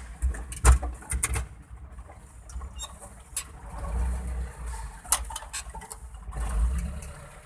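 Truck engine running at low speed with a low rumble that swells and fades, and a few sharp clicks and knocks about a second in and again around five seconds.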